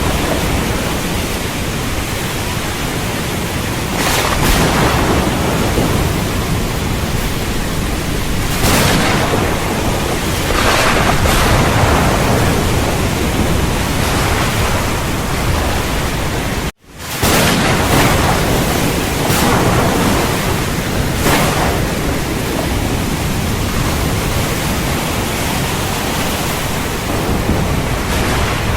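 Thunderstorm: dense steady rain with swells of thunder rolling in and out every few seconds. The sound cuts out for an instant about two-thirds of the way through.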